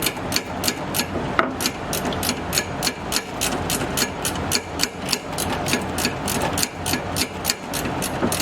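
Ratchet wrench clicking in a quick, even run of about four to five clicks a second while a nut is turned, over the steady hum of a shop fan.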